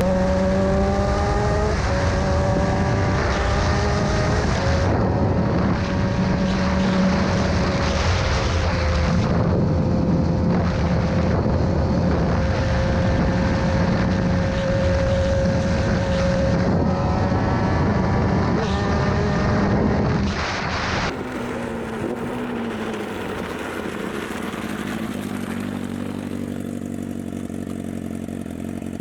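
Sportbike engine accelerating, its pitch climbing through the revs, then held high and steady, with a second climb a few seconds before the change. About 21 seconds in it drops to a quieter, lower, steady engine drone.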